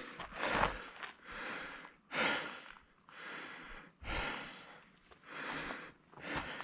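A person breathing hard in a steady rhythm, about one breath a second, winded from climbing a steep mountain trail.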